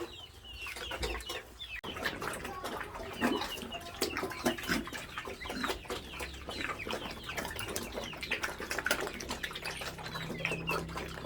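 A flock of chickens clucking, many short calls overlapping throughout.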